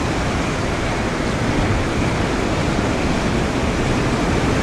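Tornado storm wind rushing steadily over the camera microphone, a dense, even noise with heavy low rumble from the wind buffeting it.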